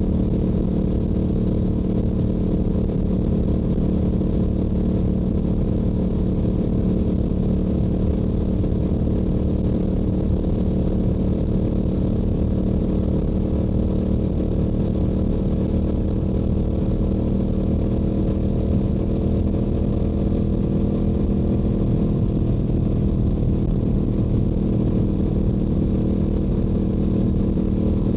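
Stock Yamaha YZF-R7's 689 cc parallel-twin engine and exhaust running at a steady highway cruise, holding an even pitch with no throttle changes.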